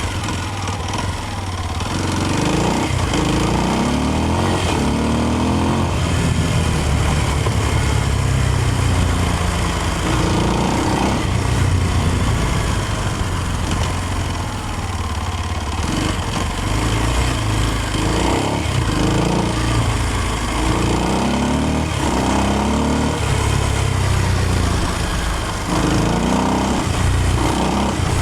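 Kawasaki KLX230's single-cylinder four-stroke engine being ridden, its pitch rising again and again as the throttle is opened and dropping back in between, over a steady rushing noise.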